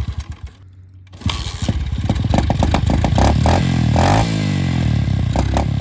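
SSR pit bike's small single-cylinder four-stroke engine sputtering briefly, catching about a second in, then running and being revved up and down in short blips.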